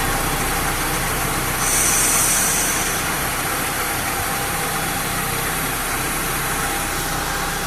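A CNC router's 9 kW Italian spindle running, a steady machine noise, with a brief louder hiss about a second and a half in.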